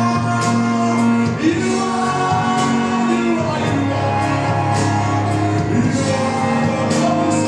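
Live gospel praise music: a worship band playing held chords over a steady beat, with voices singing.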